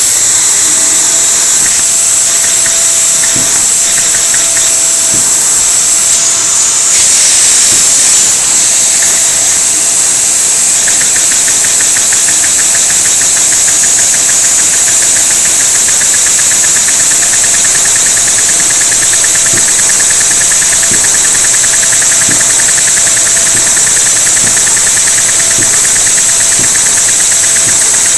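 Vacuum suction source running loudly at full power, driving a Lego butterfly-valve vacuum engine. A fast, even clicking from the engine's moving parts comes in about eleven seconds in and keeps on.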